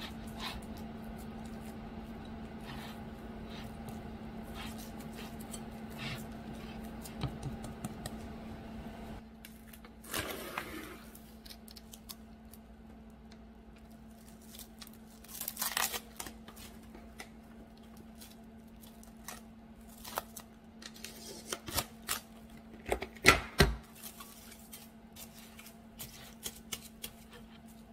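Plastic cling wrap being pulled from its roll, torn off and crinkled, then pressed over the rim of a glass mixing bowl, with a run of sharp clicks and taps near the end. A steady low hum stops about nine seconds in.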